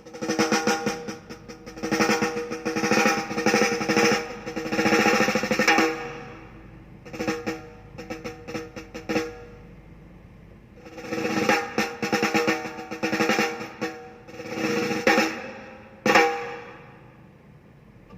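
Recorded drum music with fast snare rolls and pitched drum hits, played back through a Bewith car audio system with newly added tweeters. Runs of rolls come in three stretches, with a single hit near the end.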